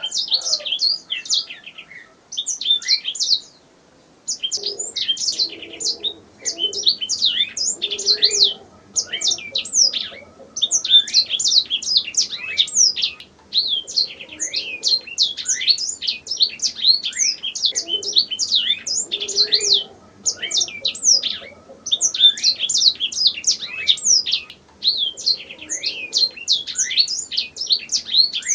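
Domestic canary singing: long, rapid phrases of high trills and sweeping notes, broken by short pauses, with a gap of about two seconds near the start.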